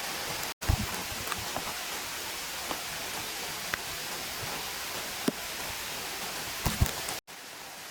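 Steady rushing of a flowing mountain stream, with a few scattered sharp clicks and low knocks. The sound cuts out briefly twice, about half a second in and near the end.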